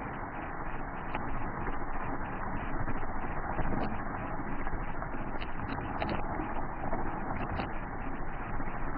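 Steady vehicle noise, engine and road rumble, picked up by a police car's dash-camera microphone, which makes it sound muffled and narrow.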